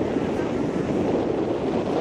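Steady rushing roar of Niagara Falls, mixed with wind buffeting the microphone.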